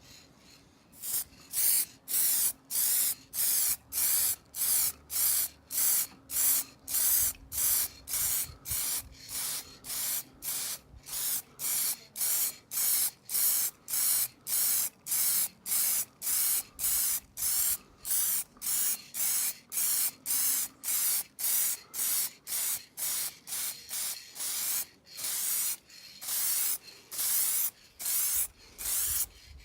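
Aerosol spray can sprayed in short, evenly spaced bursts, a little under two a second, with a few longer bursts near the end: light coats being laid onto a sanded headlight lens.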